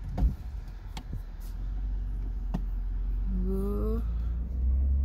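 Minivan engine idling and then pulling away, a steady low rumble that grows louder near the end as the van starts to move. A few sharp clicks in the first seconds and a brief rising hum with a voice-like pitch about three and a half seconds in.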